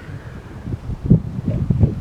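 Wind buffeting the microphone: irregular low rumbles that swell from about a second in.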